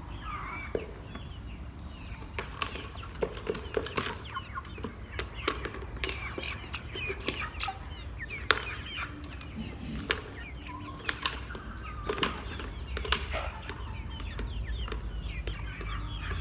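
Chickens clucking and peeping in many short calls, with scattered sharp clicks among them over a steady low hum.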